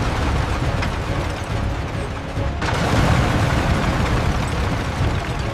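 Loud, continuous rumble and crashing of building demolition, with debris coming down. About two and a half seconds in it breaks off abruptly and a similar heavy rumble takes over.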